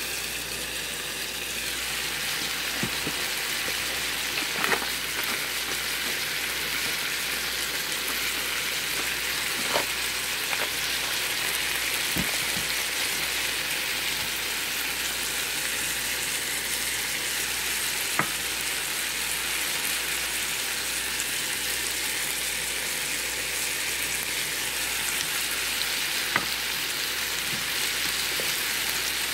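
Bitter melon, onions and tomatoes sizzling in a frying pan: a steady high hiss, broken by a handful of sharp clicks scattered through it.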